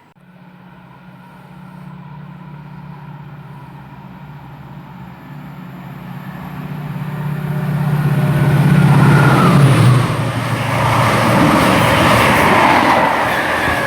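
A Class 68 diesel locomotive and its train passing at speed without stopping. A steady engine drone grows louder as it approaches, drops in pitch as it goes by about ten seconds in, then gives way to the rushing of wheels on rail.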